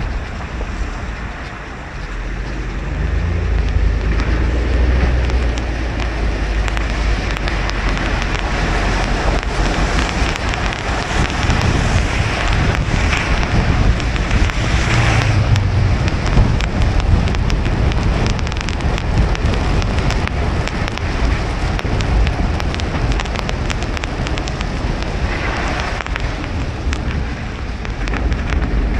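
Car driving on a wet road in the rain: steady tyre and road noise with rain hiss. A low rumble swells about two seconds in, with a few brief rushes of louder hiss later on.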